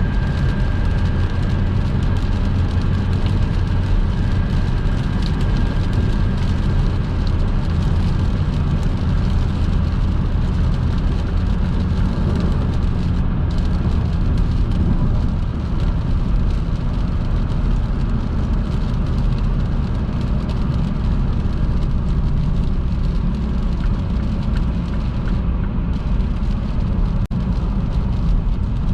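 Car driving at speed on a wet motorway in rain: a steady, loud rumble of road and tyre noise, with a single click near the end.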